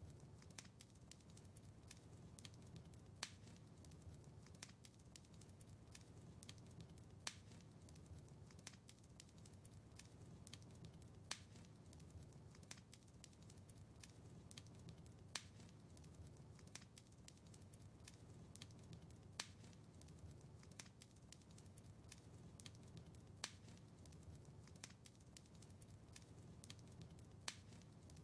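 Wood fire crackling in a fireplace: a steady low rumble of flame with many small ticks and a sharper pop about every four seconds.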